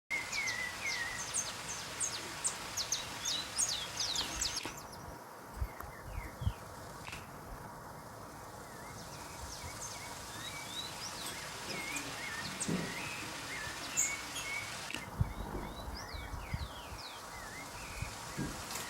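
Wild birds chirping and whistling in many short, high calls over a steady outdoor hiss, with a few low thumps.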